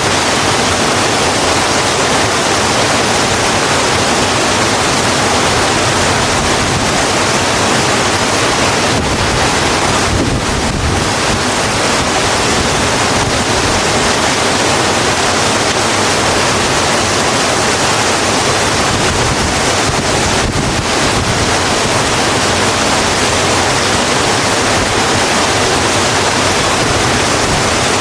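Steady heavy rain, an even hiss with no separate drops standing out.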